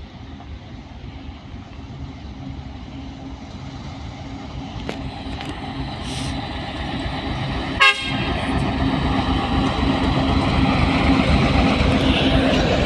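An approaching train, its rumble growing steadily louder, with one short, loud horn toot about eight seconds in.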